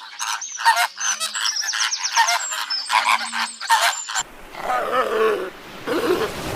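Animal calls: a rapid run of short, high honking and chirping calls, then a sudden change about four seconds in to lower, wavering calls.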